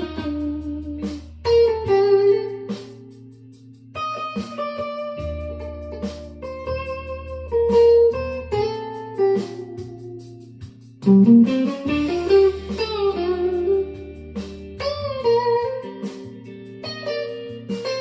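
Electric guitar improvising melodic lead lines, with runs of notes and slides, over long held low bass notes that change every few seconds.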